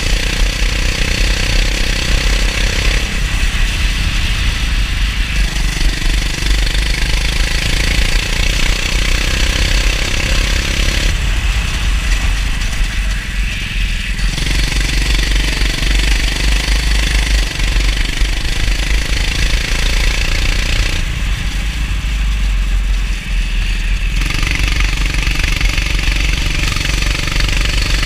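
Go-kart engine running hard through a lap, its note changing every few seconds as the throttle is lifted and reapplied, with a steady hiss over it.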